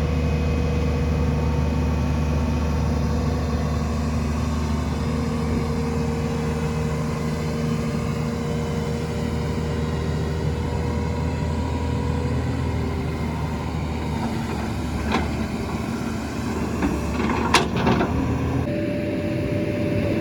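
Engine of a piece of heavy construction machinery running steadily, with a few sharp knocks near the end.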